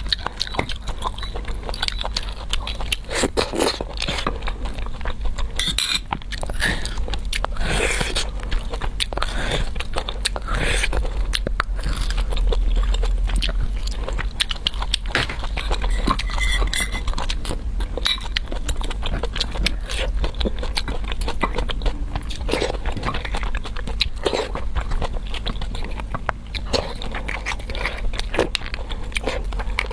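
Close-miked chewing and biting on braised beef bone marrow and tough beef sinew: irregular wet crunches, clicks and smacks throughout, over a steady low hum.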